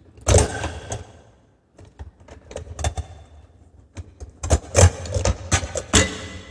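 Clatter of an espresso machine's parts being handled: a rattle about half a second in, then scattered clicks and knocks, with a busy cluster of knocks near the end.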